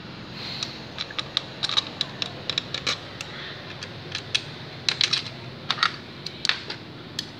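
Irregular sharp clicks and light metallic clinks of hand tools and small parts while motorcycle engine parts are being fitted back on.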